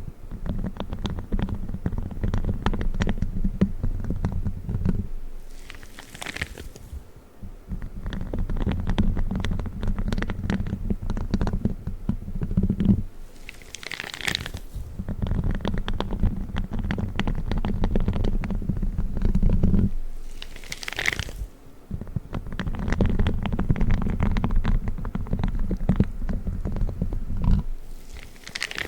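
Spiky gloves rubbed and scratched in close-up ASMR handling, a dense deep crackle in long passes of five to seven seconds. The passes break off briefly three times, each break holding a short higher rustle.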